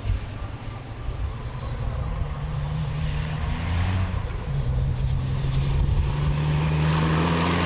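Race truck engines running hard at speed, the low engine note stepping up about halfway through and then holding, with a thin high whine climbing slowly above it. It grows louder and then stops abruptly.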